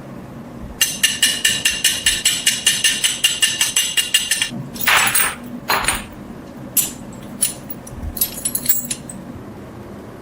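A hammer tapping rapidly on ringing steel, about five blows a second for a few seconds. Two short scrapes and a few scattered clicks follow.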